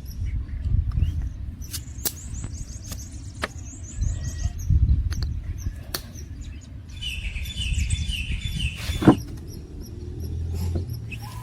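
Small birds chirping in quick runs of short, high repeated notes, twice, over a low uneven rumble with scattered clicks, one sharp click louder just after the second run.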